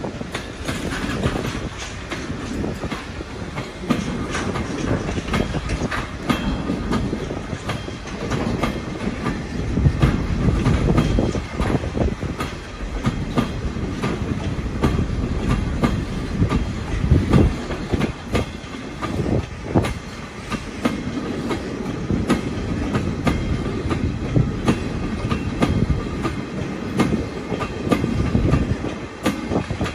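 Freight train of container flat wagons rolling past, its steel wheels running steadily with a continual clickety-clack over the rail joints.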